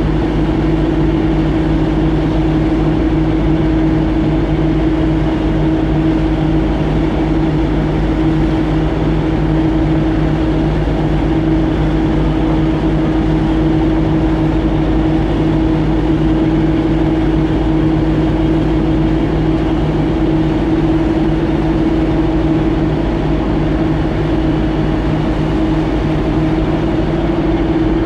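Boat engine running at a steady speed, a loud, even drone with a constant low hum, heard from aboard.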